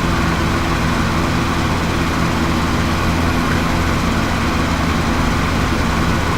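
Lawnmower engine running steadily, heard through an open window.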